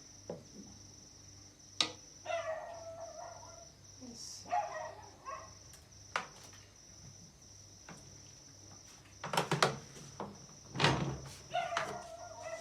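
Knocks and clunks of an air fryer and its basket being handled and put back together, loudest in a cluster about nine to eleven seconds in, with a few short animal calls in the background.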